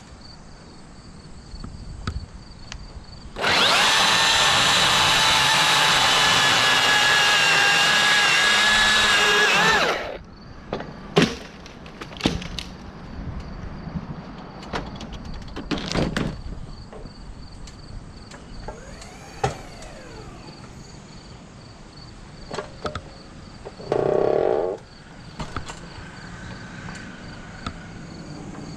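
A chainsaw runs at high speed for about six seconds, starting a few seconds in and cutting off sharply. Scattered knocks of wood follow, with a short louder thud near the end, over a steady chirring of insects.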